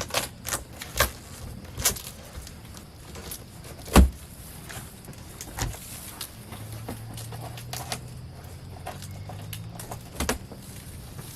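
Scattered knocks and clunks of things being handled, the loudest a single thump about four seconds in, with a low steady hum in the latter half.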